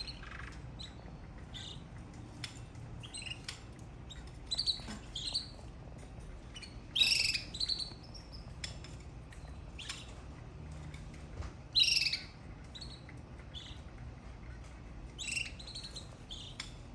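Canary chirping and singing in short, scattered phrases of high notes and trills, with the loudest bursts about seven and twelve seconds in.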